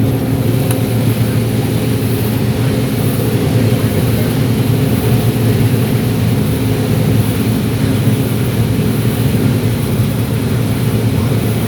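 John Deere 9760 STS combine running steadily while harvesting corn, heard from inside the cab: an even drone of engine and threshing machinery with a low, steady hum.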